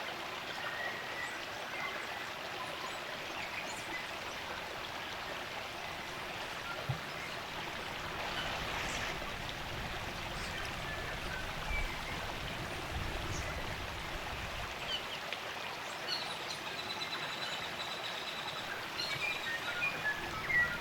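Spring-fed stream running with a steady, even rush of water. Short high bird chirps come through it here and there, more often near the end, with a brief high trill in the later part. A low rumble rises in the middle and fades.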